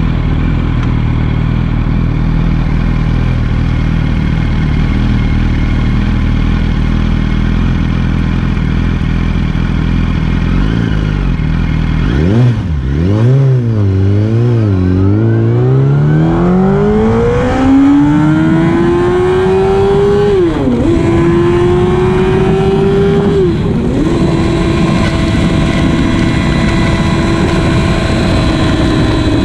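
Sport motorcycle engine heard from the bike, idling steadily, then revving up and down a few times as it pulls away. It accelerates hard with the revs climbing and dropping at two upshifts, then holds a steady, higher engine note at speed.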